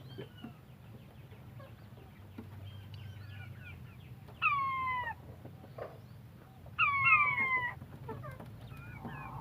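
Quail calling: a loud falling call that hooks at its end about halfway through, then two overlapping ones near the end, with faint soft chirps before them.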